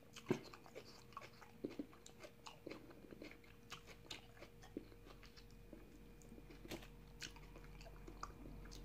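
Close, faint mouth sounds of a person eating fried chicken: chewing with scattered wet clicks and smacks, more frequent in the first few seconds. A faint steady hum lies underneath.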